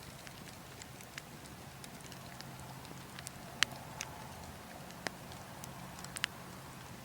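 Burning logs crackling, with scattered sharp pops, the loudest about halfway through and near the end, over a steady low wind.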